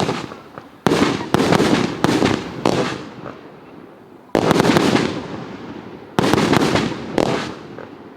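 A 50-shot consumer firework cake with 30 mm tubes firing, about seven shots in all. Each shot is a sudden bang followed by a sound that dies away over a second or so; four come in quick succession in the first three seconds, then single shots come one to two seconds apart.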